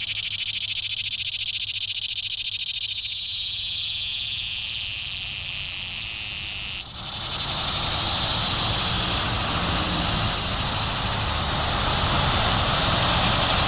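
Male annual cicada calling: a loud, steady, high-pitched buzz, finely and rapidly pulsed. About halfway through the sound shifts abruptly and a low steady rumble comes in beneath the buzz.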